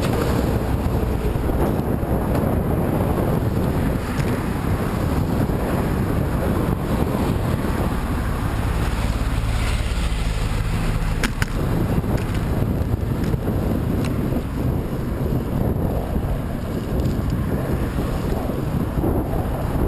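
Heavy wind buffeting on the microphone while riding into a headwind, a steady low rumble. A low hum joins it for a few seconds about halfway through, and there is one sharp click just after.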